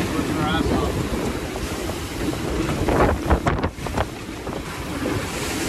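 Heavy wind buffeting the microphone over the rush of waves against a sailboat under way, with a cluster of sharper splashes or gust hits about three to four seconds in.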